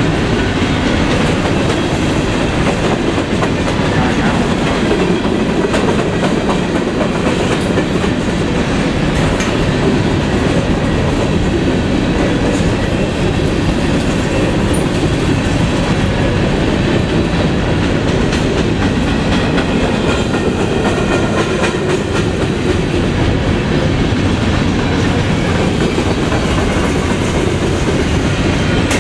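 Freight train cars rolling steadily past, a continuous loud rumble with wheels clicking over the rail.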